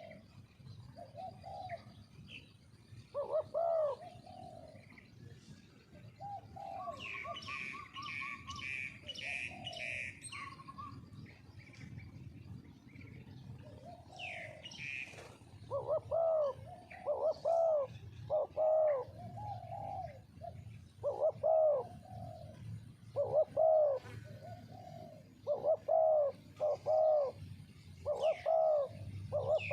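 Spotted doves cooing in repeated short phrases that come thick and fast in the second half, with a smaller bird chirping higher in the first half.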